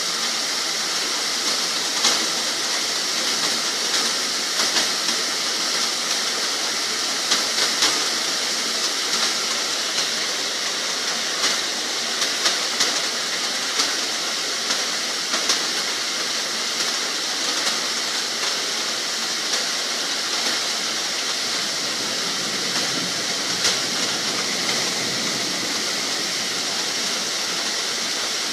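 Heavy rain pouring steadily, a dense hiss with many sharp drop hits standing out from it.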